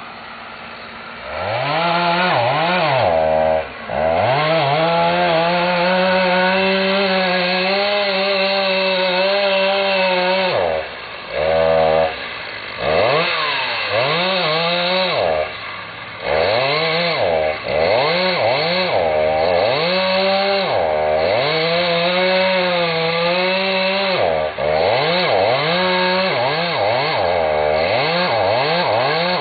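Chainsaw revved up about a second in and run at full throttle, cutting wood, its engine note dropping back and sweeping up again several times as the throttle is released and squeezed.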